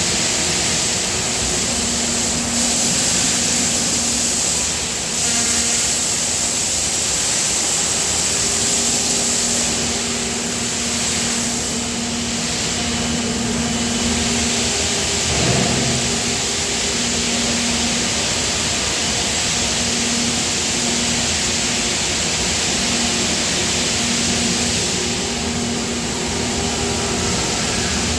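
Steady noise of die casting machinery running, with a low hum that breaks off and returns every second or so in the second half, and one brief knock about halfway through.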